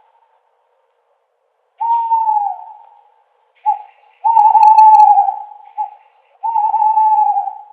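Owl hooting: a single falling hoot about two seconds in, then a quick run of four more, short and long notes in turn, the long ones held for about a second.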